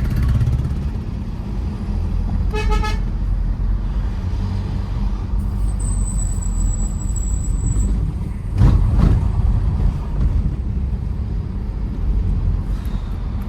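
Tata Safari Storme SUV driving on a hill road, a steady low rumble of engine and road noise. A short car horn toot sounds about two and a half seconds in, and a louder rush of noise swells briefly about nine seconds in.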